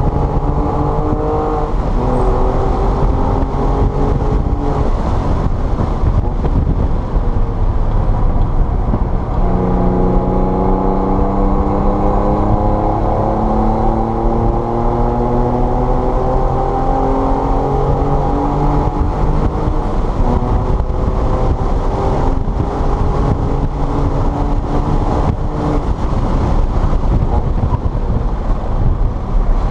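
A car engine under hard driving, its note climbing as it accelerates and dropping back at gear changes or lifts, several times, over a constant low rumble of road and wind noise.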